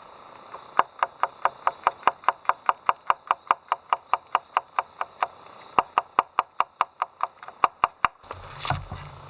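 Rapid, evenly spaced knocks, about six a second, in two runs with a short break between them, over a steady high hiss.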